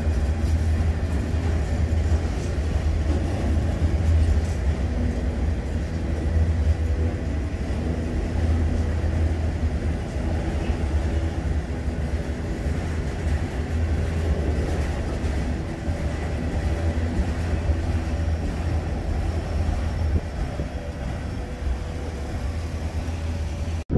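Freight train of enclosed autorack cars rolling past at close range, a steady low rumble of steel wheels on rail.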